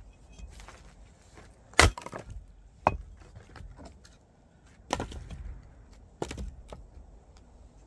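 Firewood log being split: four sharp cracks of wood, the loudest about two seconds in, with brief splintering after some of them.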